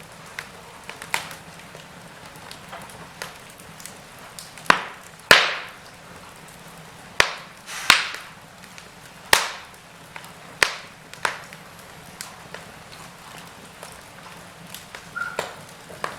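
Wood fire in a fireplace crackling: sharp pops and snaps at irregular intervals over a low steady hiss, with a run of louder pops through the middle.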